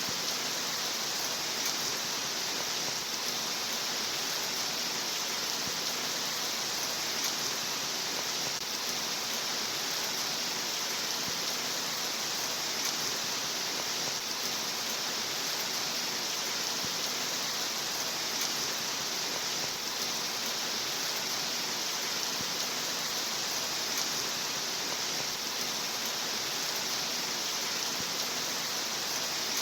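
Steady rain, an even hiss with no separate drops or changes in level.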